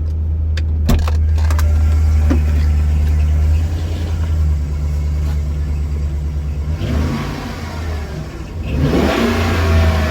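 Chevy Express van's V8 engine running with a steady low exhaust drone, then revved briefly twice near the end, the pitch rising and falling each time. A sharp click sounds about a second in.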